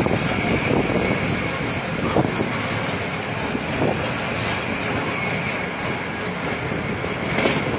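Passenger coach running along the track, heard from an open window: a steady wheel-and-rail rumble with a few sharp clicks over rail joints.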